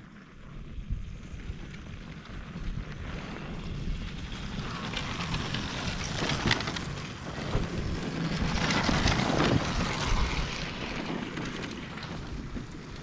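Off-road enduro motorcycle engine approaching and passing, growing louder to a peak about nine seconds in and then fading away, with wind buffeting the microphone.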